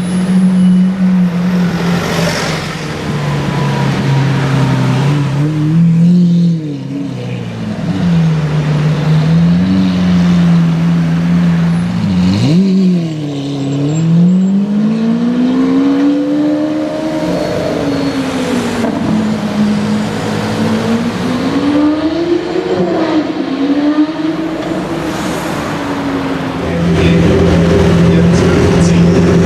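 Supercar engine revving loudly, its pitch swinging up and down over and over, with a sharp drop and quick climb about twelve seconds in. The pitch is held steady at the start and again near the end.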